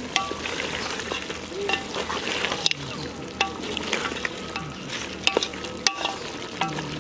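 Chicken pieces frying in a large metal pot while being stirred with a long ladle, the steady frying hiss broken now and then by sharp scrapes and clinks of the ladle against the pot.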